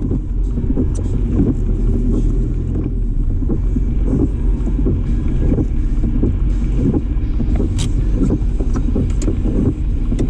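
A car's steady low rumble, heard from inside the car, with scattered light knocks and clicks.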